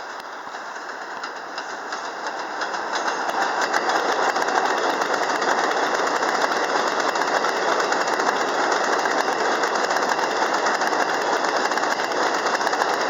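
New York City subway 7 train running on elevated track, getting louder over the first few seconds and then holding at a steady rush of wheel and rail noise with rapid clicking.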